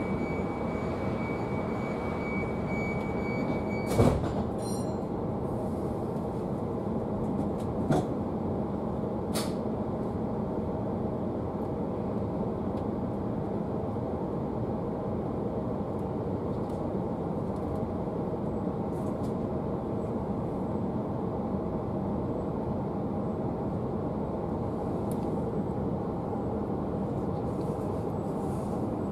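Inside an electric passenger train carriage: a steady high door-warning tone sounds for about four seconds and ends with a loud thud as the doors shut. The train then pulls away with a steady running rumble and a couple of clicks.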